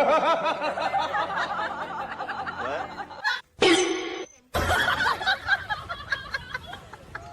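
Laughter for about three seconds, then an abrupt cut to a brief pitched call, then another cut to a busier mix of sounds with many short clicks.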